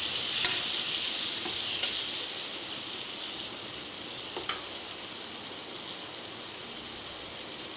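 Onions and tomatoes sizzling in hot oil in a kadai, the sizzle slowly fading as the tomatoes are stirred in, with a few sharp clicks of the spoon against the pan, the loudest about four and a half seconds in.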